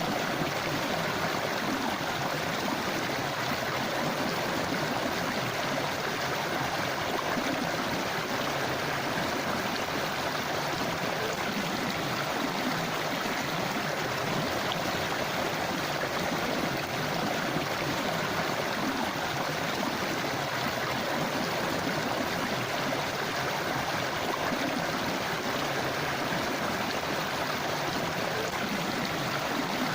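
A river running over stones, a steady rushing with fine gurgling and splashing that does not change.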